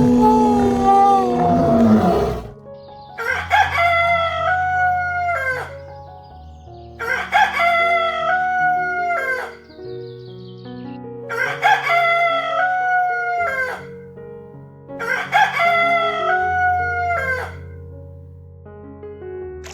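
A rooster crowing cock-a-doodle-doo four times, about every four seconds, over background music. Before the first crow, a different loud, held animal call ends about two seconds in.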